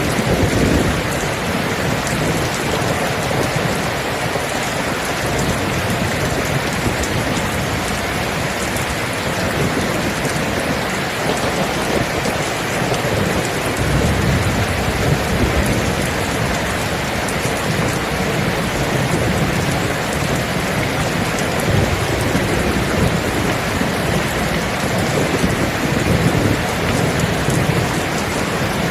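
Steady, heavy rain falling, with low thunder rumbling several times underneath, the strongest roll about halfway through.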